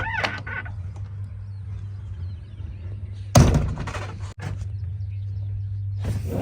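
Diesel engine of heavy earthmoving machinery running steadily, with one loud thunk about three and a half seconds in.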